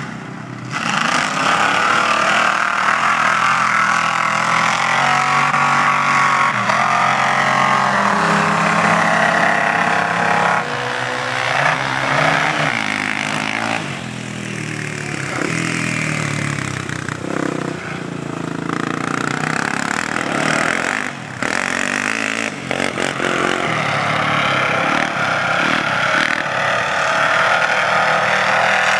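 A 4x4 mud truck's engine revving up and easing off again and again, its pitch rising and falling as it works through the mud.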